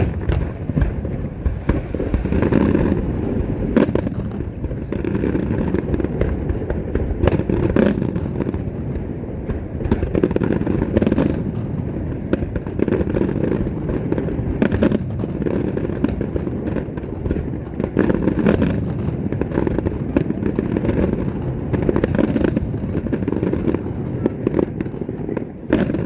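Aerial fireworks display firing: a continuous barrage of overlapping shell bursts and booms, with many sharp cracks throughout.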